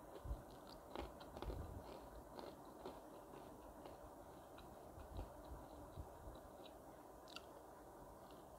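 A person chewing and biting fried chicken close to the microphone: faint, irregular small crunches and clicks, a few louder ones in the first two seconds.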